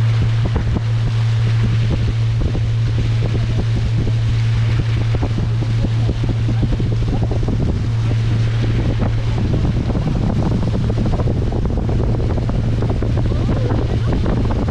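Motorboat engine running at a steady speed, a constant low hum, with wind buffeting the microphone and water rushing and slapping against the hull.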